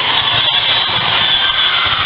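Steady loud din of a crowd at an indoor volleyball tournament, many voices and court noise blending into one even wash.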